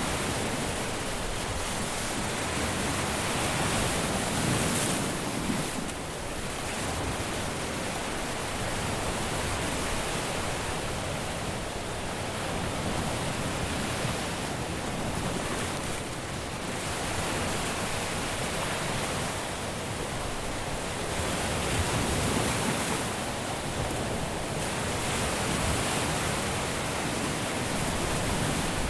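Caribbean surf washing onto a sandy beach: a continuous wash of breaking waves that swells and eases every few seconds.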